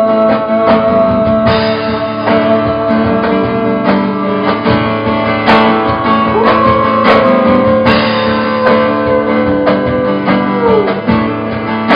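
Live band music, an instrumental passage of a folk-pop song, with strummed acoustic guitar under a held melody line that slides between notes.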